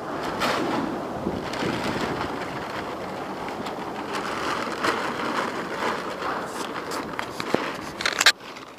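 Pop-up tent's nylon fabric rustling and crackling as it is handled in strong wind, with many sharp clicks. The noise cuts off suddenly with a loud knock near the end.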